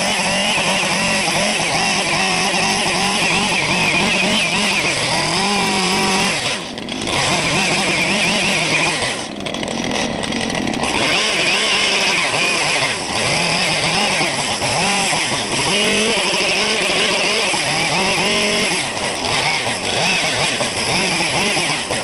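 Chainsaw running and cutting into wood, its revs rising and falling as it carves, with brief drops in revs about seven and ten seconds in.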